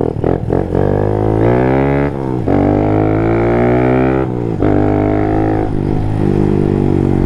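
Honda Monkey's small single-cylinder engine pulling hard and running up through the gears, with a brief break at each shift, about three shifts in all.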